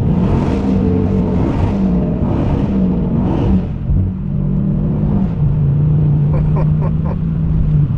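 Dodge Challenger Hellcat's supercharged 6.2-litre V8 revving up and down, then holding a steady drone through the second half.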